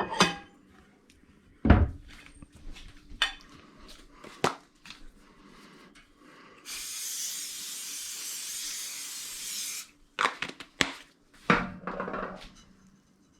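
An aerosol can of cooking-oil spray hissing steadily for about three seconds, about halfway through, between scattered knocks and clatters of kitchen things being handled.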